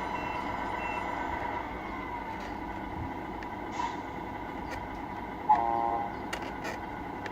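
Electronic sound unit of a Tamiya radio-controlled truck, playing a steady diesel-engine hum through its small speaker. A single short, loud air-horn blast about halfway through is the loudest sound, followed by a few faint clicks.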